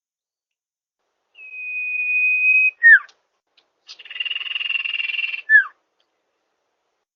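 Common iora (cipoh) calls: one long, steady, clear whistle ending in a short falling note, then about a second later a rasping, buzzy trill ending in another short falling note.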